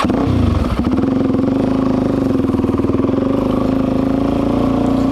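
Suzuki DR-Z400's single-cylinder four-stroke engine rising briefly in pitch at the start, then running at a steady speed.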